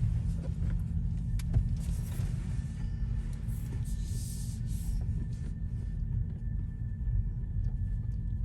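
Steady low rumble of a car driving slowly, heard inside the cabin, with a couple of light clicks about a second and a half in.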